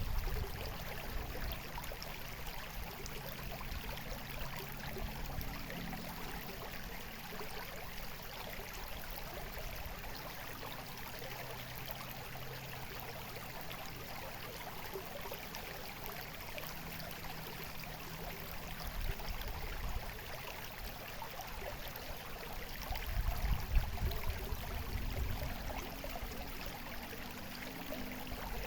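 Shallow stream of water babbling and running steadily, with a few brief low rumbles, one past the middle and a stronger one near the end.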